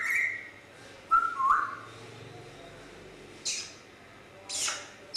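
Grey parrot whistling a few short clear notes in the first second and a half, followed by two short hissing calls later on.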